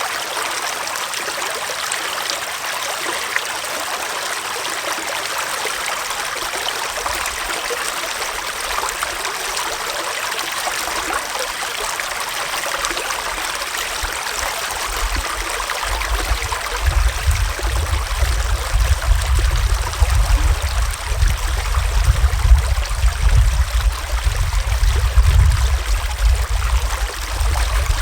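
Small forest stream flowing steadily over stones, a continuous splashing rush. About halfway through an uneven low rumble joins it and grows louder.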